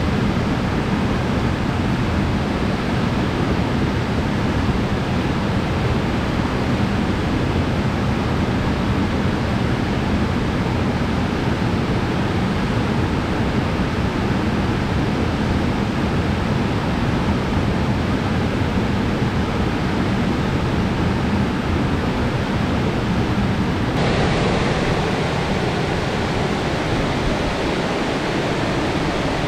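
Steady rushing of a wide, slanting cascade waterfall, about 7 m high and 20 m across. About two-thirds of the way through, the rush turns suddenly brighter.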